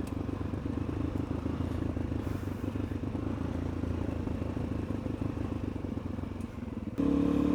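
Suzuki DR-Z400E's single-cylinder four-stroke engine running at low revs while the bike rolls along a dirt track, with a rough rattle over the engine. Near the end the engine note suddenly gets louder and clearer.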